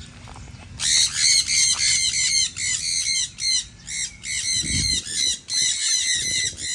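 Parrots squawking: a quick run of short, repeated calls that starts about a second in and keeps going.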